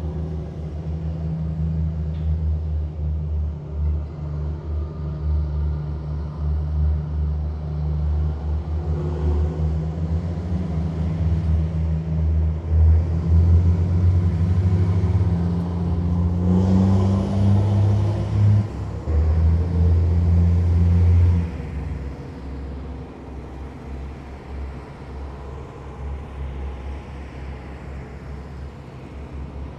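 Heavy military vehicles driving past in a column, their big diesel engines making a deep, steady drone. It swells as they pass close, then drops away sharply about two-thirds of the way through, leaving a lower rumble.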